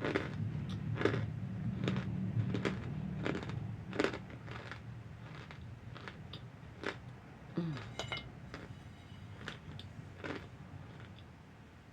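Close-up crunching and chewing of pressed cornstarch chunks. Sharp, irregular crunches come about one or two a second, thinning out over the last few seconds.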